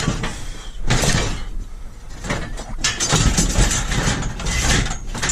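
A heavy domestic boiler's metal casing being wrestled and dragged, with repeated scraping and knocking.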